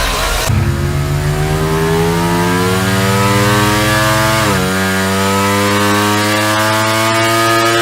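Ducati Diavel V4 RS's 1,103 cc V4 engine accelerating hard: its pitch climbs steadily, drops once about halfway through at an upshift, then climbs again.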